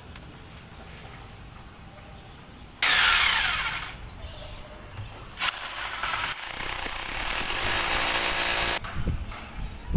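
Power drill running in two bursts: a short loud one about 3 s in that winds down within a second, then a longer steady run from about 5.5 to 9 seconds.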